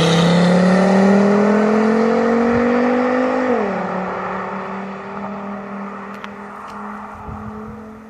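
Volvo S60 R's turbocharged five-cylinder engine pulling hard with its pitch climbing, then dropping suddenly about three and a half seconds in as it shifts up. It then runs at a steady pitch and fades away.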